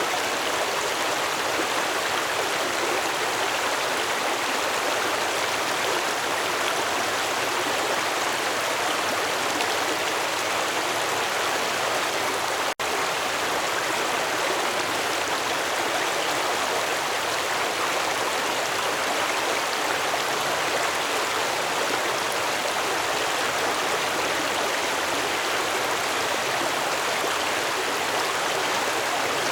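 Stream water flowing steadily, with a brief dropout to silence about halfway through.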